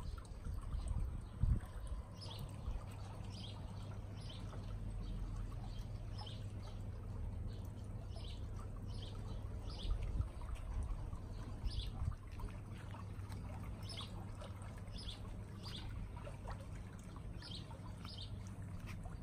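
Birds chirping in short calls, singly and in pairs, over a steady low hum and a light trickle of water.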